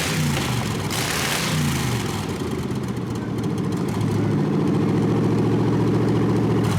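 A vehicle engine revving, its pitch dropping in a few sweeps, then running steadily at a constant speed for the last few seconds.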